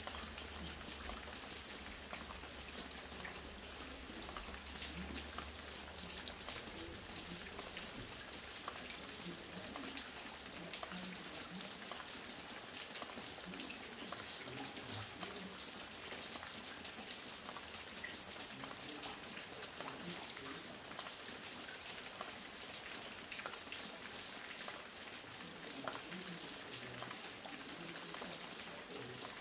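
Light steady rain, with many small drops pattering and dripping from a roof. A low hum underneath fades out about seven seconds in.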